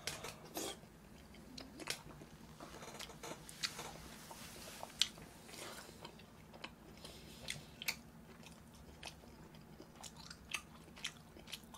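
Close-miked chewing of a mouthful of braised chicken, heard as soft scattered wet clicks and smacks of the mouth, a few a second at irregular intervals.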